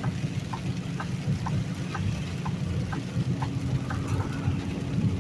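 Inside a semi truck's cab: the diesel engine runs with a steady low rumble while the turn signal clicks evenly, about twice a second.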